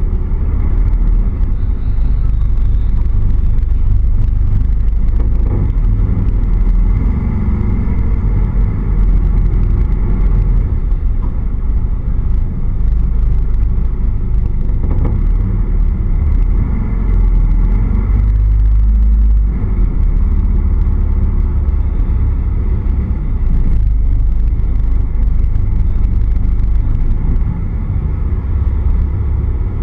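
A car's engine and exhaust rumbling steadily as the car creeps along at low speed through an underground car park, the engine note drifting slightly up and down.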